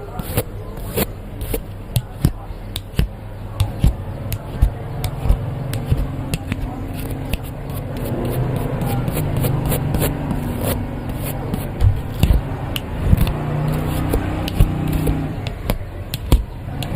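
Close-miked ASMR trigger sounds: many quick, irregular clicks and scratches of small objects rubbed and tapped near the microphone, over a low steady hum that grows louder about five seconds in.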